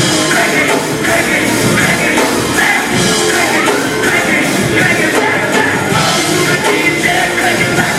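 Live rock band playing loud, with distorted guitars, drums and singing, as heard through a fan's phone recording in a club.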